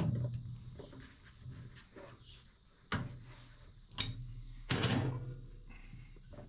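Wrench work on a Bush Hog gearbox plug: sharp metal knocks, one near the start and two more about three and four seconds in, then a short rattling scrape just before five seconds.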